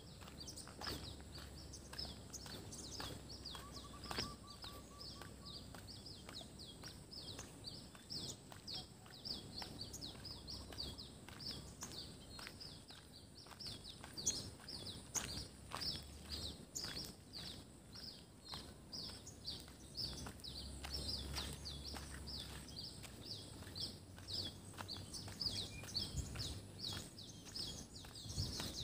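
Birds chirping, short high falling notes repeated several times a second without a break, over light footsteps on the road.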